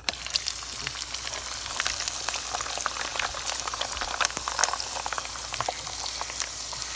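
A sheet of gim-bugak (dried laver coated with glutinous rice paste and sesame seeds) is lowered into hot oil and starts sizzling at once. A dense, steady crackle and spatter of popping oil goes on as it fries.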